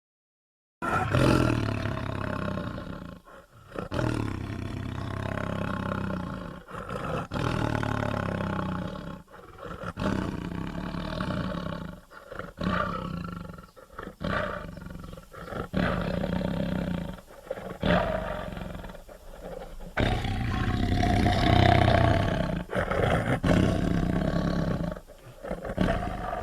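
An animated character's voice roaring and growling, a string of roars one after another with short breaks between them.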